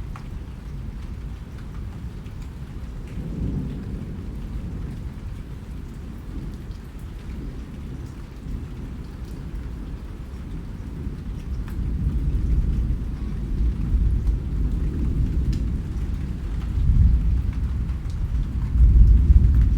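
Rain falling steadily with a deep, continuous rumble of thunder underneath, swelling louder in the second half, with faint scattered drop ticks on top.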